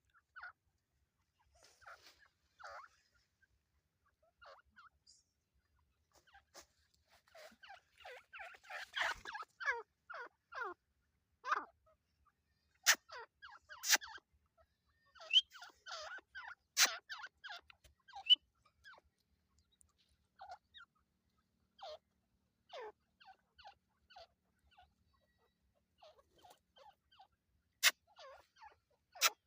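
A family of teetar francolins calling: many short, scattered calls and chatter, busiest about a third of the way in. A few sharp clicks stand out louder than the calls.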